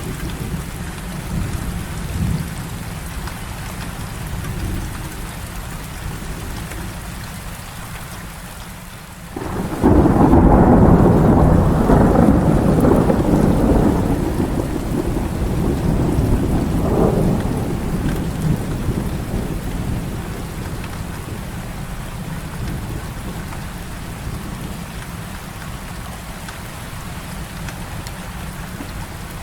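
Heavy rain falling steadily. About a third of the way in, a sudden loud clap of thunder breaks into a long rolling rumble, which swells again partway through and fades slowly back into the rain.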